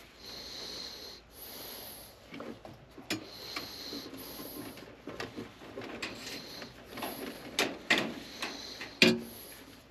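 Wires and small tools being handled: rustling and scraping, with scattered clicks and knocks. The sharpest knock comes near the end.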